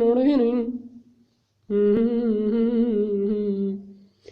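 An unaccompanied man's voice humming a wordless, wavering melody in the Iraqi sad-song style. The first phrase fades out about a second in, and a second long phrase follows from about two seconds in until near the end.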